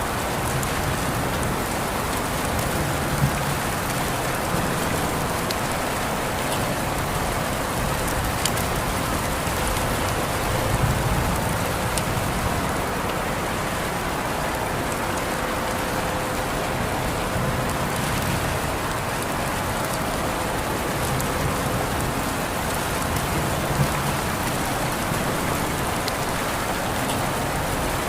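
Steady rain falling, an even hiss with occasional sharper drop ticks standing out.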